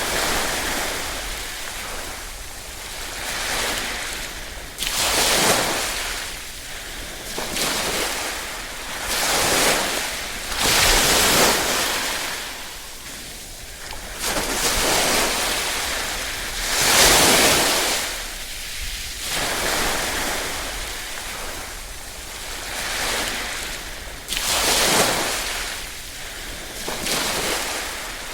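Small waves lapping at the shore, each one swelling into a hiss and washing back, a new one every two to three seconds.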